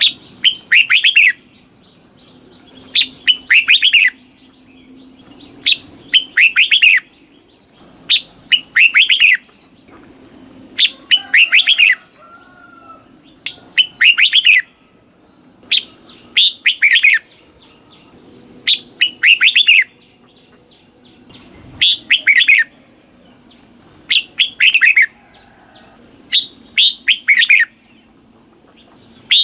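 Red-whiskered bulbul singing its short, loud, warbled phrases over and over, one about every two to three seconds with quiet gaps between.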